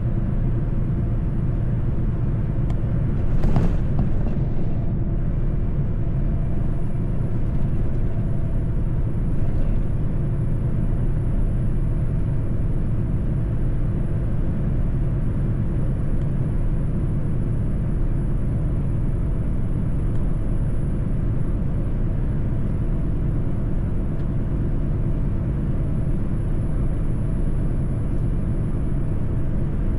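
Mercedes-Benz truck driving on the road: a steady low rumble of engine and road noise, with a brief louder rush of noise about three and a half seconds in.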